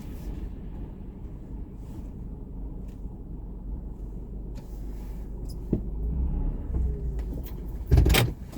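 Steady low rumble of a vehicle on the move, with a click partway through and a loud thump near the end.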